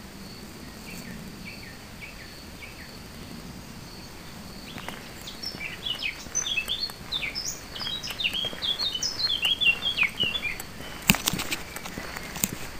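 A songbird singing: a few faint chirps at first, then a fast, varied run of quick high chirps from about five seconds in to about ten. Near the end come a few sharp knocks.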